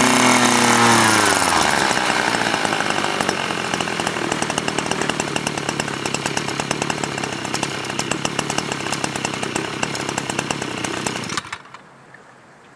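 OREC SP650A mower's small petrol engine throttled down from high revs, its pitch falling within the first second and a half, then idling with a steady rapid beat before it is switched off and stops abruptly near the end.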